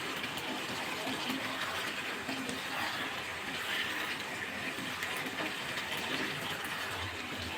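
Chicken curry sizzling and bubbling in the pan as the chicken pieces fry in the water released from the meat, a steady hiss.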